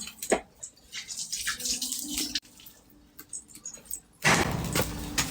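Light crackling and scattered ticks of food cooking over a wood fire, with a louder steady hiss cutting in abruptly about four seconds in.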